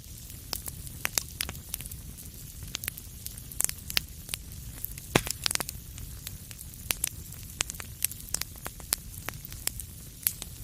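Wood fire crackling in a fireplace: irregular sharp pops and snaps over a low steady rumble of flames, with one louder pop about five seconds in.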